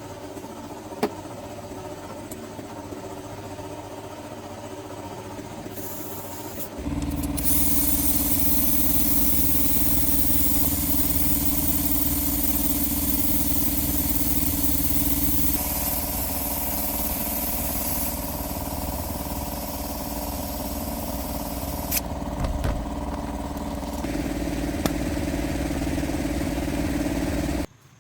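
Repaired scrap-vehicle engine running steadily. About seven seconds in it gets louder and a strong hiss joins it for much of the rest. The sound shifts abruptly a few times and cuts off suddenly near the end.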